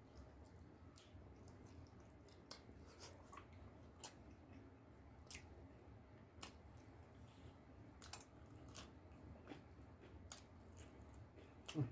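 Faint chewing and scattered soft, wet mouth clicks from two people eating curry and rice by hand, over low room tone.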